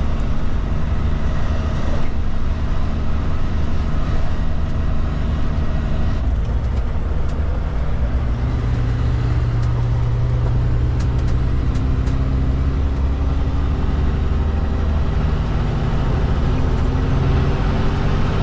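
Kenworth K200 road train's Cummins diesel engine running under way, a steady drone over road noise. The engine note shifts about six seconds in and climbs gently over the last few seconds.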